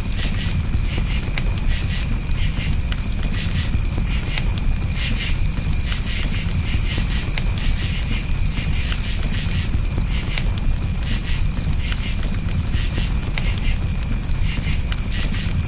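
Crickets chirping in a steady pulsing chorus over a crackling campfire, the fire giving a low rumble and frequent sharp pops and snaps.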